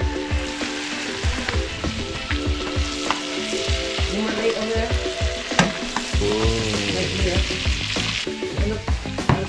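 Chunks of bluefin trevally searing in garlic butter in a pan over a gas burner, sizzling, with short clicks of chopsticks and tongs turning the pieces. The sizzle swells a few seconds in and drops back near the end.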